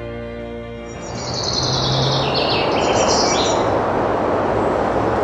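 Soft string music fades out, then birds chirp for a couple of seconds over a steady rushing outdoor noise.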